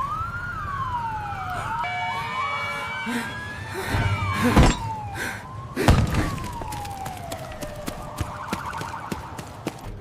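Police siren wailing, its pitch rising and falling slowly, with two heavy thuds about four and a half and six seconds in.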